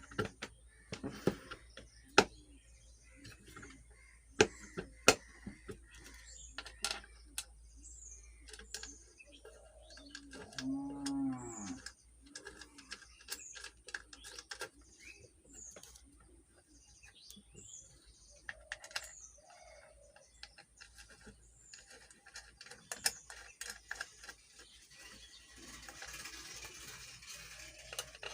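Sharp clicks and knocks of ceiling fan parts being handled and fitted back together after a bearing change. A cow moos once, about halfway through, and small birds chirp in the background.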